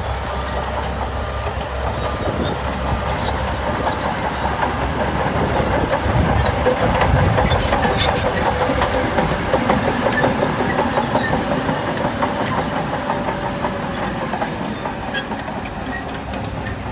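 Heavy earthmoving machinery running, an engine rumble that grows louder for a few seconds in the middle, with scattered metallic clanks and clicks from the machines at work.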